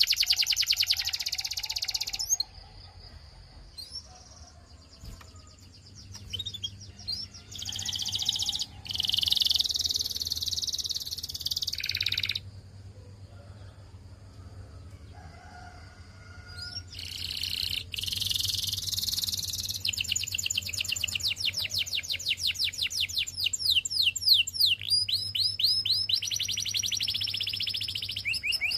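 Canary singing: long runs of fast, high trills and rolls, broken twice by pauses of several seconds with only a few scattered chirps.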